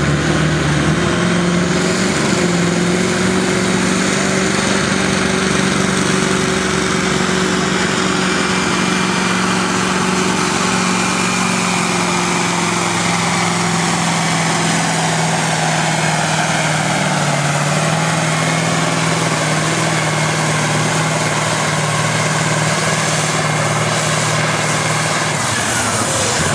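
Massey Ferguson 1155's V8 diesel engine running hard under load as the tractor pulls the weight sled, its pitch sagging slowly as the load builds. The engine note drops away near the end.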